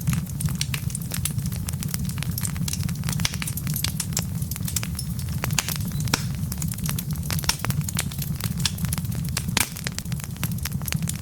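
Wood fire burning, with a steady low rumble under frequent, irregular sharp crackles and pops from the logs.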